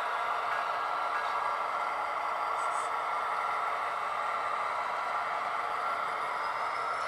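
Train rolling by, a steady rattling noise of wheels on the rails.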